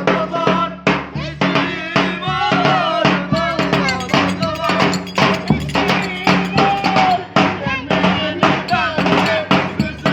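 Live band music for a köçek dance, with a steady percussion beat under a melody that bends and ornaments its notes.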